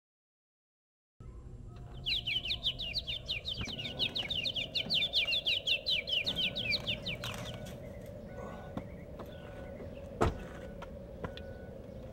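A bird singing a fast, even trill of short chirps for about five seconds, starting a couple of seconds in. A single sharp click comes near the end.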